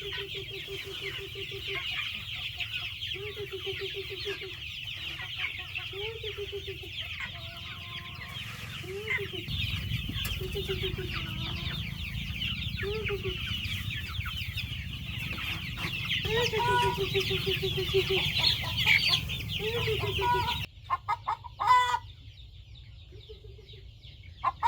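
Chickens clucking: hens give trains of low, repeated clucks again and again over a steady high chirring. About 21 seconds in, the background drops away suddenly, leaving a few short calls.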